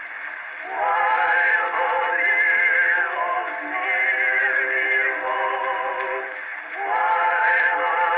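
Edison Amberola 30 cylinder phonograph playing a Blue Amberol record: a male singer with instrumental accompaniment, thin and lacking high treble. There are brief breaths between phrases about half a second in and again near six and a half seconds.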